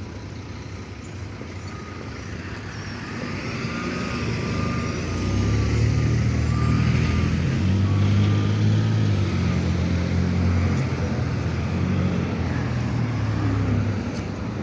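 A motor vehicle passing close by on the road: its engine grows louder about five seconds in, holds, then fades near the end, over steady traffic noise.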